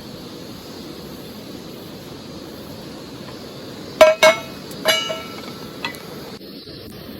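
Two sharp clinks with a brief ringing tone about four seconds in, another about five seconds in and a faint one just before six, like hard objects knocking together, over a steady hiss.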